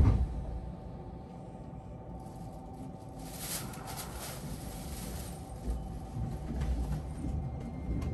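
Commuter train interior: a heavy thump as the sliding doors shut, then the car's low rumble with a faint steady hum, and a brief hiss about three and a half seconds in.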